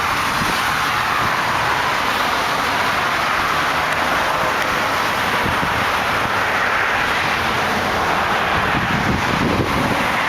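Steady outdoor background noise, an even hiss-like rush with no distinct events.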